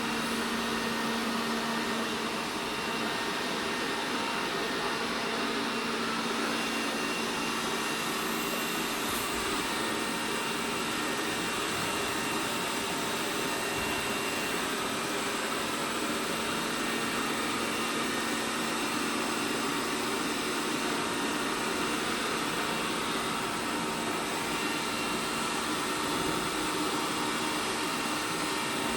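ELARI SmartBot Lite SBT-002A robot vacuum cleaner running: a steady whirring noise with a low steady hum.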